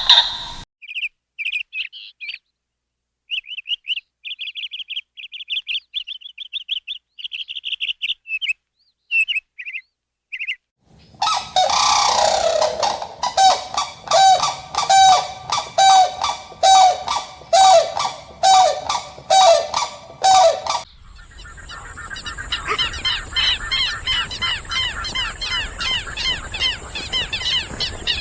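Birds calling in three stretches: first scattered short high chirps, then from about eleven seconds in a long run of loud honking calls repeated about once every second, then a dense fast chirping over a steady high hiss.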